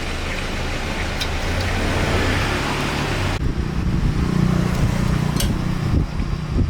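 A small engine running steadily; about three and a half seconds in, the hiss above it cuts off abruptly and its low note steps higher.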